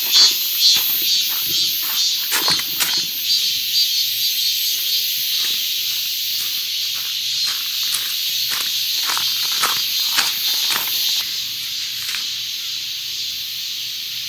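Food sizzling on a hot cast-iron cauldron-lid grill: a steady hiss with many small pops and crackles, busiest in the first few seconds, easing slightly near the end.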